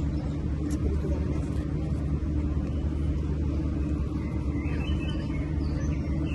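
Steady low engine hum, even and unbroken, with faint higher sounds over it.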